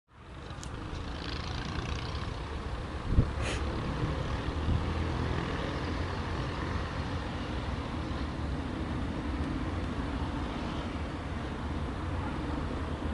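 Steady low rumble of a diesel freight train, with a sharp clack about three seconds in.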